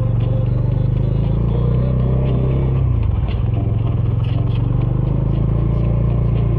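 Bajaj Dominar 400's single-cylinder engine running through its stock exhaust under way at a steady pace, with a brief dip in the engine note about three seconds in.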